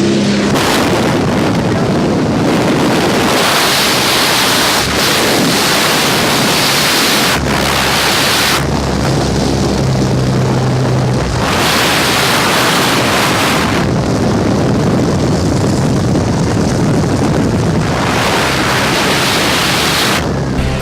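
Loud rushing wind on the microphone during a tandem skydive: the open door of the jump plane and the freefall. The noise swells and eases every few seconds.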